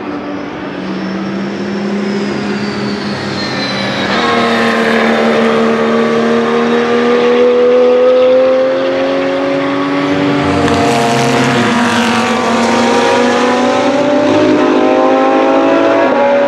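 GT race cars' engines running at speed as several cars pass, their notes overlapping and gliding up and down with gear changes and passing, loudest around the middle.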